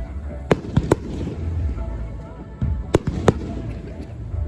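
Fireworks shells bursting overhead: four sharp bangs in two quick pairs, about half a second in and again about three seconds in, over a steady low rumble of further bursts.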